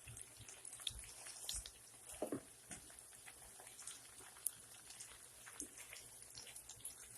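Faint, scattered crackling and ticking of potatoes frying in oil in a pan, over a light hiss.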